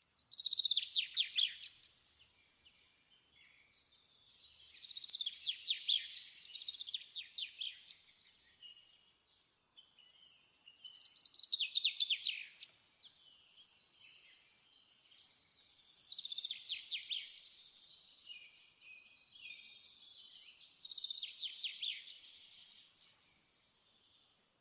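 A songbird singing: five high, fast trilled phrases, each one to four seconds long, with short pauses between them.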